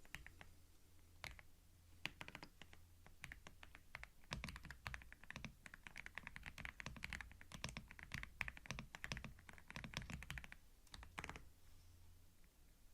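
Typing on a computer keyboard, recorded binaurally at low volume: a few scattered key clicks, then a fast run of typing from about four seconds in until near the end, where it thins out to a last short flurry.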